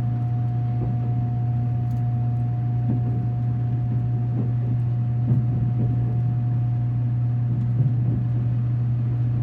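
Train running with a steady low hum and a thin, steady higher tone over it, with faint irregular rumbling.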